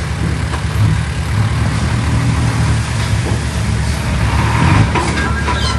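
Heavy diesel engine of earthmoving machinery running steadily with a low rumble, with a few short knocks near the end.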